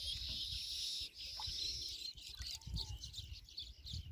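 Birds chirping: a high, wavering trill for the first two seconds or so, then short, repeated chirps.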